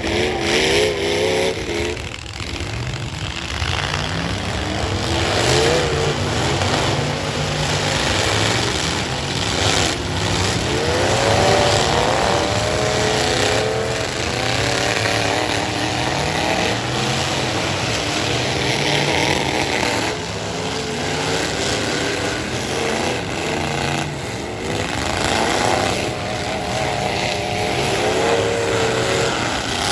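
Several full-size pickup truck engines revving hard at once, their pitch rising and falling, with a few sharp bangs of trucks colliding in a demolition derby.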